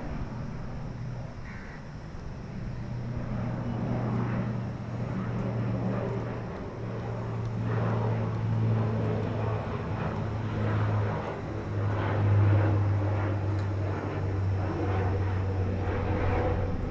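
Helicopter running while set down on its pad: a steady low hum with a noisy rush over it.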